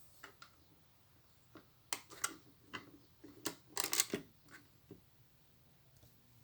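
Plastic Lego bricks clicking and clattering as they are handled, a flurry of sharp clicks through the middle, loudest about four seconds in.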